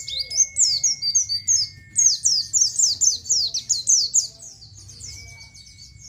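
A pleci (white-eye) singing a fast, unbroken run of high chirping 'ciet ciet' notes. The song is loud for about the first four seconds, then carries on fainter.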